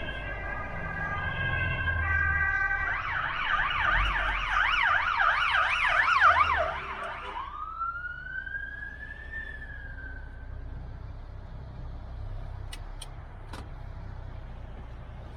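Emergency vehicle siren. It starts on an alternating two-tone hi-lo pattern, switches about three seconds in to a fast warbling yelp, and ends on one long rising-then-falling wail that dies away about ten seconds in. A vehicle engine's low running sound continues underneath.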